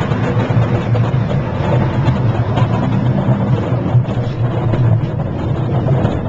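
Miniature park train running, heard from aboard: a steady, loud low rumble of the engine and wheels.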